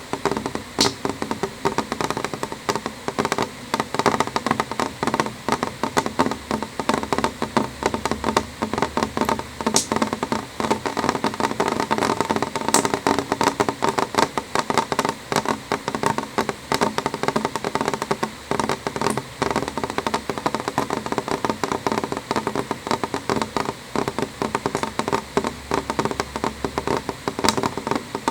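Rain on window glass: a dense, steady run of drops tapping against the pane.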